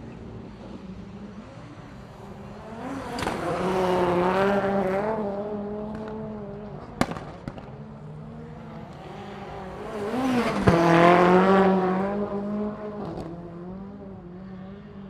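Two rally cars passing one after the other, each engine note rising and falling with the throttle as it swells loud and fades away. A single sharp crack comes between the two passes, over a steady low hum.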